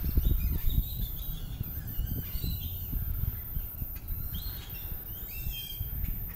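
Several birds chirping and calling, short rising and falling notes overlapping one another, with wind rumbling on the microphone.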